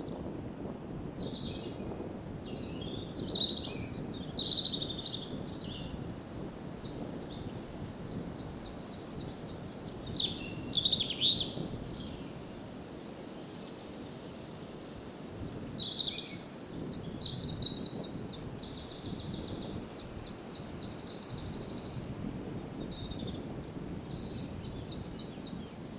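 Several songbirds singing and calling, with rapid trills and quick runs of repeated chirps, over a steady low rush of wind.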